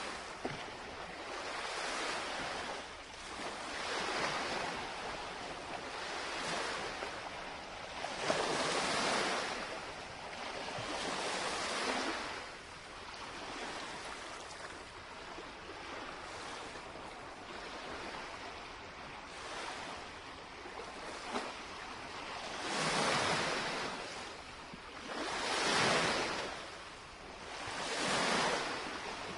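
Small lake waves lapping and washing onto the shoreline, each wash swelling and fading over a few seconds, with three stronger washes near the end.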